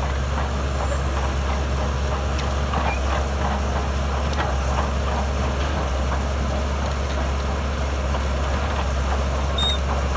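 Heavy diesel earthmoving machinery running steadily, a low engine drone with scattered light clatter over it.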